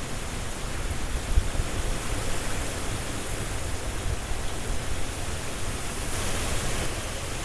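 Strong wind rushing through trees with rustling leaves: a dense, steady rush with a low buffeting rumble that swells slightly in gusts about a second in.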